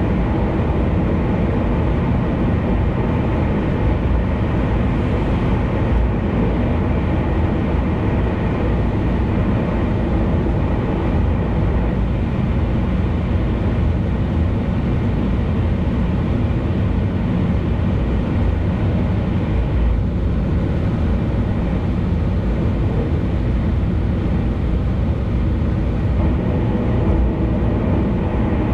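Steady road noise of a car at expressway speed: tyre roar and engine running evenly, without a break.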